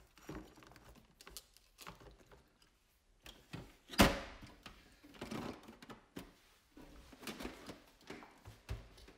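Plastic storage boxes and detailing tools being handled: scattered clicks and knocks, with one loud knock about four seconds in.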